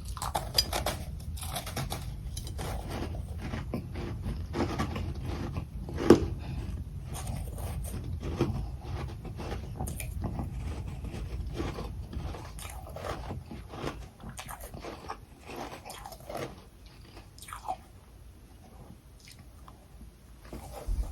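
A person biting into and chewing freezer frost packed with crushed ice, in quick, dense crunches with one loud crunch about six seconds in. The crunches thin out and grow quieter near the end.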